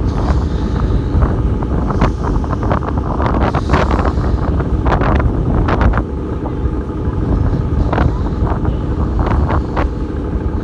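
Strong wind buffeting the microphone on a moving ferry, a steady low rumble, with irregular flapping crackles of fluffy hair fluttering in the wind.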